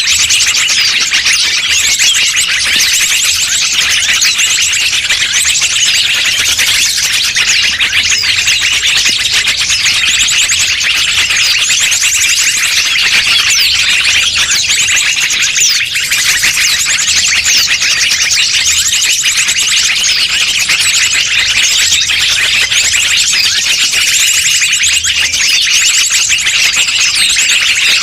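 Bird-luring call recording: a loud, unbroken chorus of shrill small-bird chirps and rapid trills, many calls overlapping, used to draw wild birds in.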